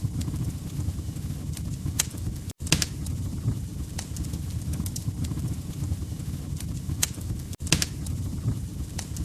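Fireplace fire crackling: a steady low rumble with scattered sharp pops and snaps from burning logs. The fire sound cuts out for an instant twice, about two and a half seconds in and again near the end.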